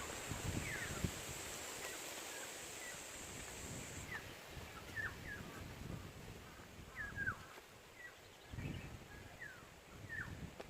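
Forest birds calling with many short, falling chirps, over a high steady insect drone that cuts off about four seconds in, with scattered low thuds.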